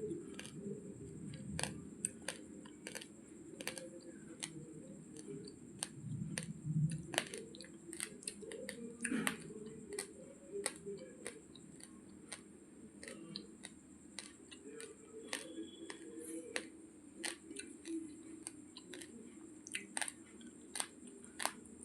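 Raw basmati rice grains being chewed close to the microphone: a run of irregular, sharp crunches and clicks, a few per second, over softer mouth sounds.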